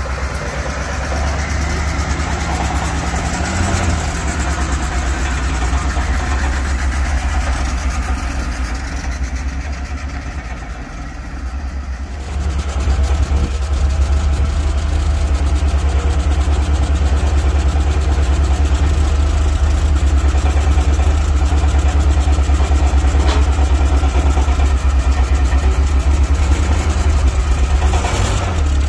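BMW 2002's four-cylinder engine idling steadily, a low even hum from the exhaust. About twelve seconds in the sound shifts and runs louder.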